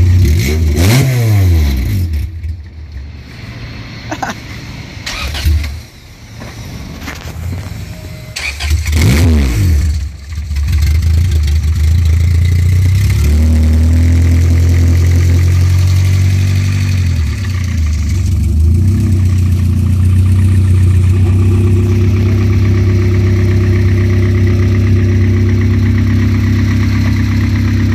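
Freshly built Honda B16A 1.6-litre DOHC VTEC four-cylinder running during its break-in. It idles steadily and is blipped several times, the revs climbing and dropping back, and it runs louder and steadier from about a third of the way in.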